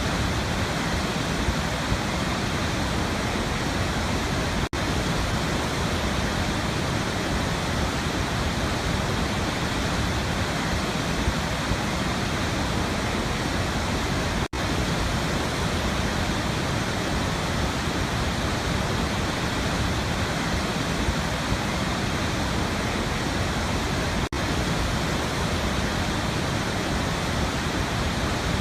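Waterfall, water falling in a steady, unbroken rush. The sound drops out for an instant three times, about ten seconds apart.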